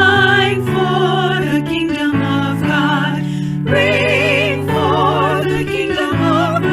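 Sacred music: singing with a strong vibrato over instrumental accompaniment of steady held chords.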